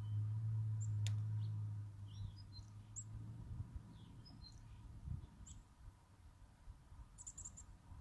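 Wild birds chirping faintly in the yard: short, high, scattered calls, with a quick run of chirps about seven seconds in. A steady low hum is loudest for the first two seconds, then fades out.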